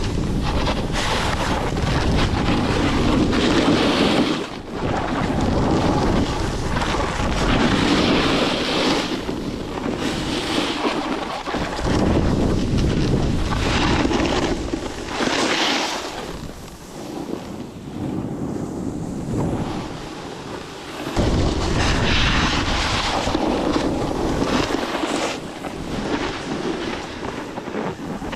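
Strong blizzard wind buffeting the microphone in gusts, easing off for a few seconds around the middle before picking up again.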